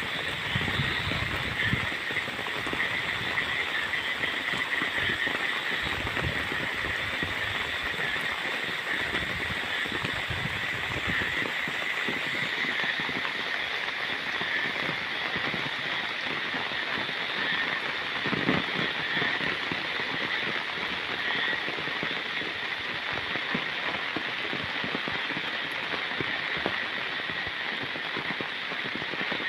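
Steady rain falling over open paddy fields, an even hiss, with a low rumble in the first ten seconds or so.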